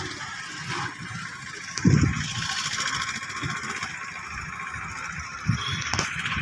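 A train approaching from a distance, a steady noise, with wind buffeting the microphone in gusts, strongest about two seconds in and again near the end, and a sharp click just before the end.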